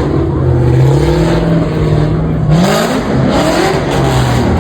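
A car engine revving and accelerating hard, so loud: a steady note that climbs sharply in pitch about halfway through.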